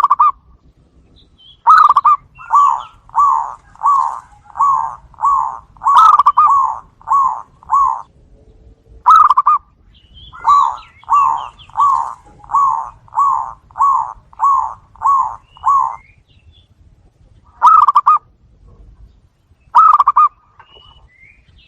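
Zebra dove (perkutut) cooing: two long runs of short, even coo notes at about two a second, with single notes before, between and after them.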